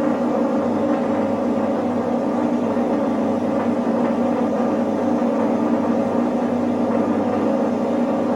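Steady machinery hum made of a few steady low tones over an even rushing noise, with no change in pitch or level.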